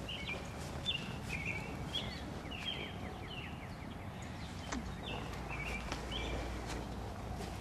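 A small bird chirping repeatedly in short calls over a steady low rumble of outdoor noise, with a few faint clicks.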